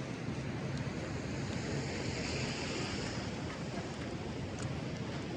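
Steady wash of street noise on a snowy city street, with a louder hiss between about one and a half and three seconds in.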